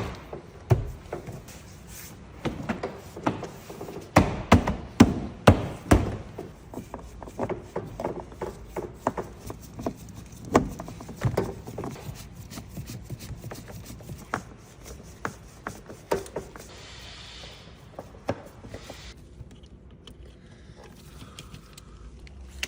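Irregular knocks, clicks and rubbing from hands and tools working on a car's interior panels during a soundproofing job. The loudest knocks come in the first six seconds, with sparser ticks and a brief hiss later.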